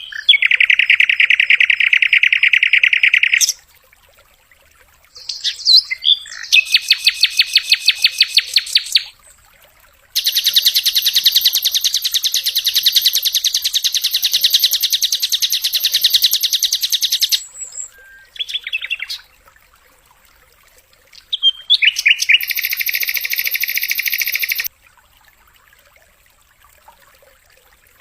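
Grey-headed canary-flycatcher (sikatan londo) singing in bursts of very fast, machine-gun-like trills, the rapid-fire 'tembakan' notes prized by Indonesian bird keepers. There are four long trilled phrases with short pauses between them; the longest, in the middle, lasts about seven seconds.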